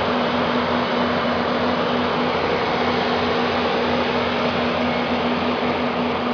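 A steady machine drone: a constant low hum under an even hiss that does not change.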